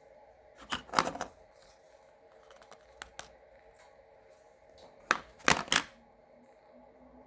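Evergo ceiling fan motor humming steadily, with two short clusters of sharp clicks and rustling, about a second in and again around five to six seconds in.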